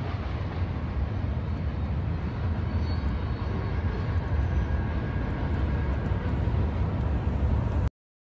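Steady low rumble of a CSX freight train running on down the line; it cuts off abruptly near the end.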